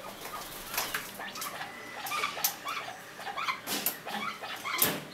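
Rufous-vented chachalacas giving many short, high calls in quick succession, with a few sharp knocks among them; the loudest knock comes near the end.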